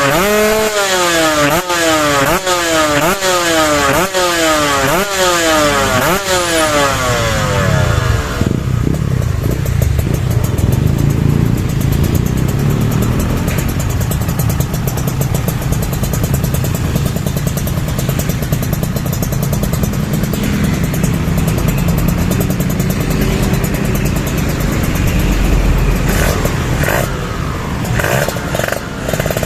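Kawasaki Ninja RR 150 two-stroke single through an expansion chamber and DTX51 aluminium silencer, revved in quick blips: about ten rises and sudden drops in pitch, a little over one a second. About eight seconds in, the blipping gives way to a steady, rough running noise with no clear pitch for the rest.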